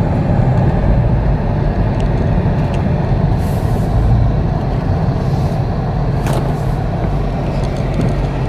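Dodge Charger Hellcat's supercharged 6.2-litre Hemi V8 running as the car drives, a steady low rumble.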